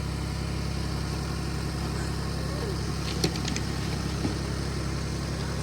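Tractor engine running steadily while towing a heavy homemade chicken tractor, with a few faint clicks about three seconds in.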